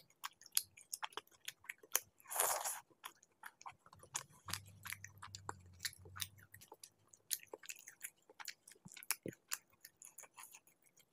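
Close-miked wet chewing and mouth clicks from a person eating chicken curry and laccha paratha, in quick irregular strokes. A louder, noisier smear comes about two and a half seconds in, and a faint low hum runs for about two seconds near the middle.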